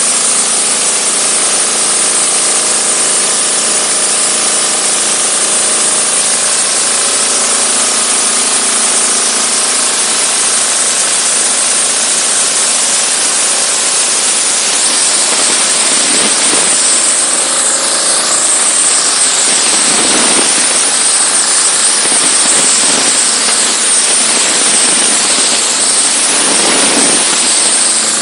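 Diesel-engine-driven high-pressure washer running, its engine hum under the loud hiss of the high-pressure jet. From about halfway the hiss of the spray gets stronger and swishes as the jet moves across a surface.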